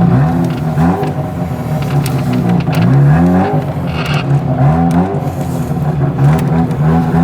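A car engine running and being revved in short blips, its pitch climbing and dropping back several times.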